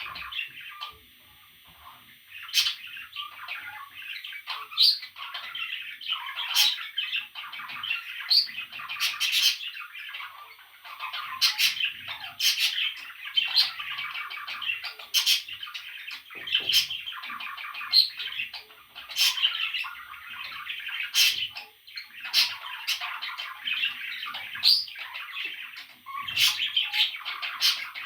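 Parrot chicks chirping and squawking almost without a break, with frequent short, sharp calls.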